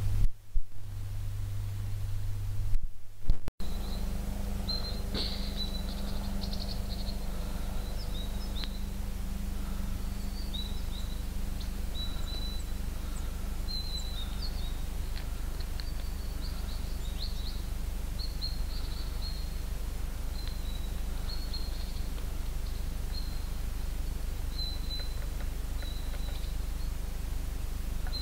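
Small birds chirping in short, high notes over a steady low outdoor rumble, with a couple of loud bumps in the first few seconds.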